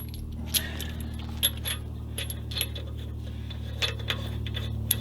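Scattered light metallic clinks and taps of hand-handled metal parts and tools during wheel installation, over a steady low hum.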